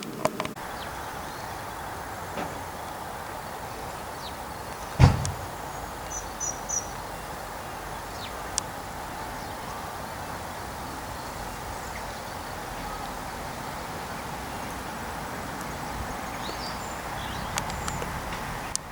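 Steady outdoor background noise with one sharp thump about five seconds in, a few lighter clicks, and some brief high chirps.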